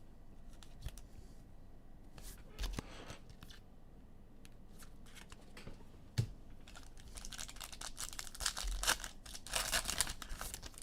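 Foil trading-card pack wrappers crinkling and tearing, with scattered light clicks of cards being handled; the crinkling grows denser in the last few seconds.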